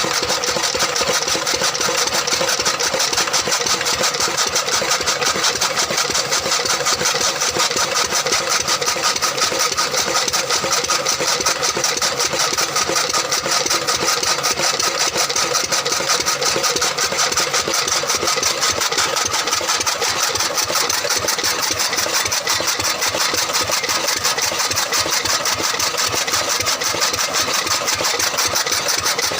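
A 10-horsepower engine running steadily with a rapid, even beat.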